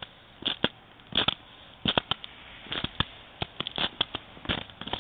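Ice crust on snow crunching and cracking under a person's weight: a string of irregular sharp cracks, about a dozen in five seconds.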